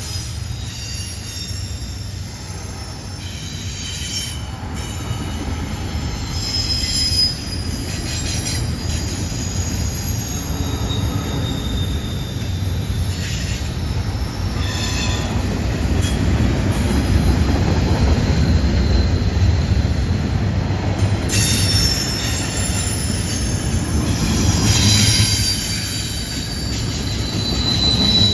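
Freight train cars rolling through a curve: a steady rumble of wheels on rail, with high-pitched wheel squeal from the curve coming and going throughout.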